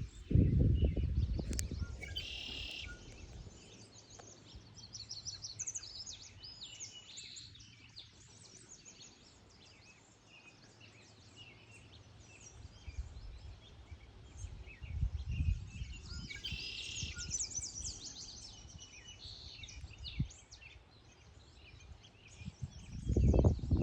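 Songbirds singing, a steady series of short high chirping notes with busier phrases about two seconds in and again past the middle. Low rumbling noise swells at the start, around the middle and near the end.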